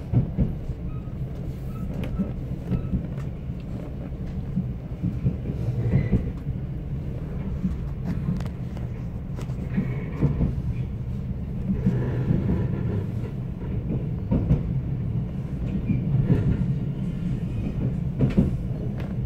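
Mugunghwa passenger train running along the rails, heard from inside the carriage: a steady low rumble with scattered knocks and clicks.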